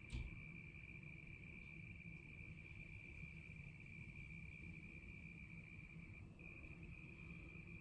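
A cricket trilling steadily on one high, unbroken note, with a short dip about six seconds in. A single sharp click right at the start, over a faint low background rumble.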